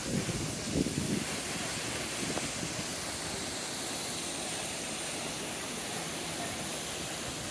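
A steady hiss of noise throughout, with a few short, faint low thuds or murmurs in the first second and again a little past two seconds in.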